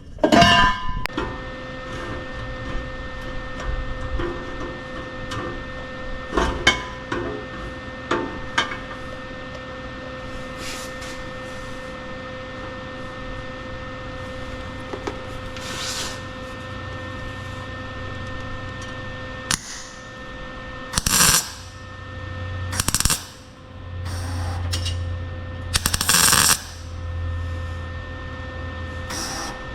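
A steady hum with a few light taps on metal, then several short crackling bursts of about a second each in the last third: quick tack welds on a steel exhaust pipe.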